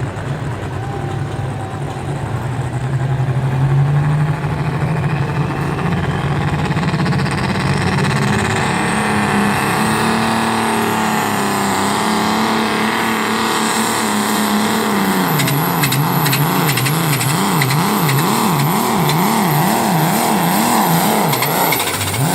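Engine of a pulling truck or tractor running hard under load during a pull run. Its revs climb about four seconds in and hold steady, then swing rapidly up and down, about one and a half times a second, before dropping off near the end.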